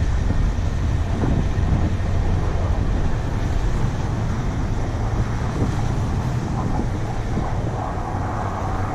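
1995 Ford F150 4x4 pickup driving through snow: the engine running steadily under a constant wash of tyre and road noise.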